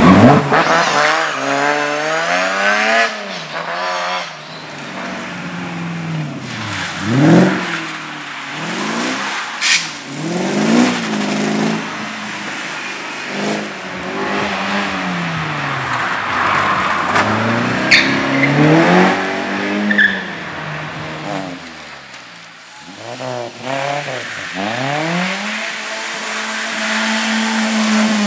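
Competition car engine revving hard and lifting off again and again as it is driven through a slalom course, with tyres squealing in the turns and a couple of sharp cracks.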